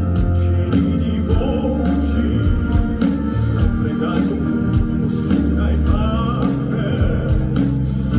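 Live song by a male crossover vocal quartet: a male voice sings with vibrato over an amplified backing track with a steady drum beat and heavy bass.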